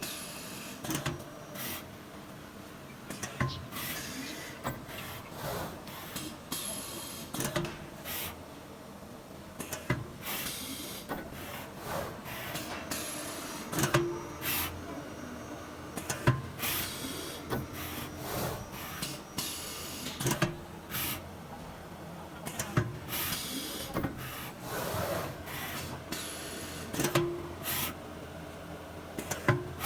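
CNC router working in wood, with its machine hum and carriage movement under irregular short hissing bursts and scattered clicks and knocks.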